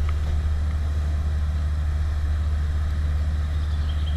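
Boat engine idling: a steady low drone.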